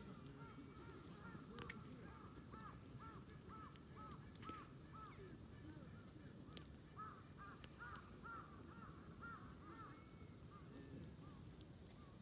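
A bird calling over and over, a long series of short arching notes about three a second, with a few sharp pops and crackles from a wood campfire.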